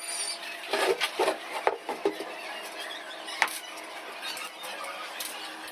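A brief high squeak, then scattered sharp knocks and clicks, clustered in the first two seconds, over a steady low hum.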